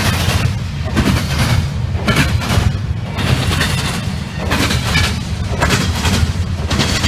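CSX double-stack intermodal freight train passing at speed: a loud, steady low rumble with sharp wheel bangs about twice a second as the wheels pound across a double diamond crossing.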